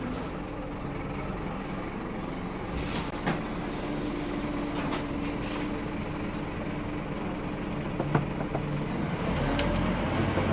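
Scania K230UB bus's five-cylinder diesel engine running with a steady drone, then its note rising near the end as it picks up. A couple of sharp knocks or rattles sound along the way.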